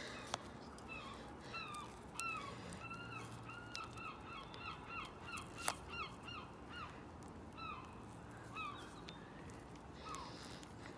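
Birds calling: a long series of short, repeated, arched calls, about two a second, from about a second in until near the end.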